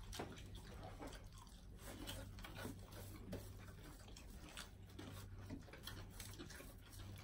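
Faint eating sounds: scattered small clicks, chewing and lip smacks as fried chicken is eaten by hand, over a low steady hum.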